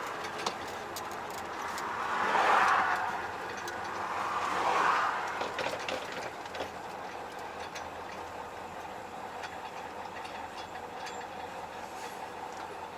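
Cab noise of a MAZ-5440 truck driving on the road: steady rumble with rattling and small clicks. Two louder swells of noise come about two and five seconds in.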